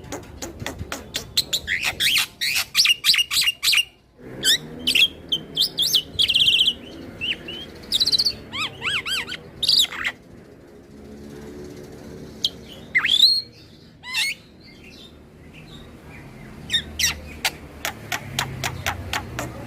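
Black-winged myna (jalak putih) singing: a rapid, varied run of sharp clicking notes, chatter and whistles, with a long rising whistle in a quieter stretch near the middle.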